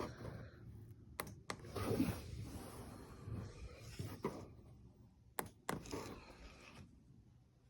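Irregular handling noises: a few sharp clicks and some rustling.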